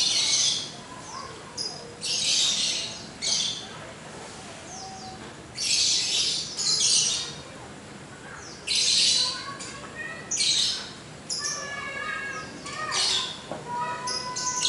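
Birds chirping and squawking in repeated short bursts, with quick falling whistled notes and, in the last few seconds, a run of thin held notes.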